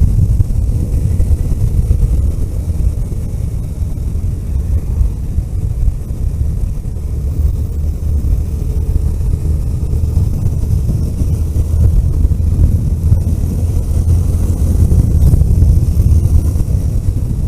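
Vehicle driving along a road: a steady low engine and road rumble that eases a little partway through and builds again later.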